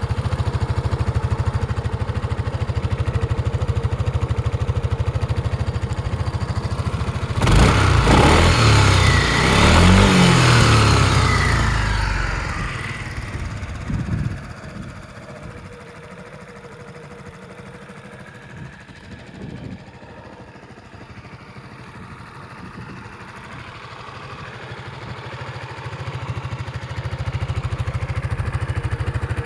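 Yamaha Majesty 250 scooter's single-cylinder four-stroke engine idling, then revved up and down a couple of times about a quarter of the way in, with one short blip of the throttle shortly after. It then settles back to idle, sounding quieter for a while before returning to its earlier level near the end.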